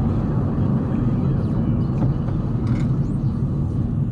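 Steady low rumble of a car's engine and tyres heard from inside the cabin.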